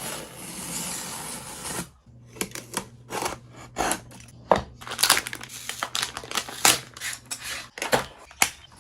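Packaging being handled up close: a steady rustling hiss for about two seconds, then a quick, irregular run of sharp crinkles, taps and clicks.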